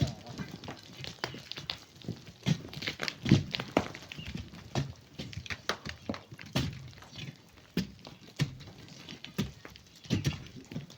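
Irregular knocks and thuds of hand digging into sand and rock, coming about one or two a second, with a louder strike about three seconds in.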